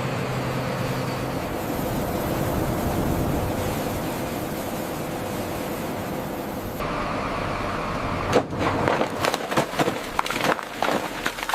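Heavy lifting machinery running with a steady rumble and low hum, which cuts off abruptly about seven seconds in; then a run of irregular knocks and clanks.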